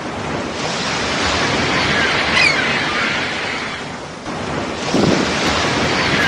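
Sea waves surging in and washing back, with wind buffeting the microphone. The surf swells, eases about four seconds in, then surges again; a brief high gliding call sounds about two and a half seconds in.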